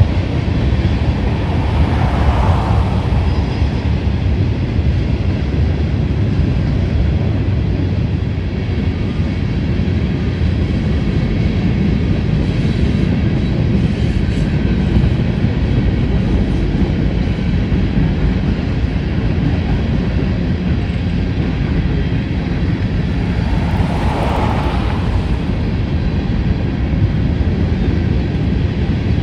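Freight train rolling past close by: a steady loud rumble of wheels on the rails as the cars go by.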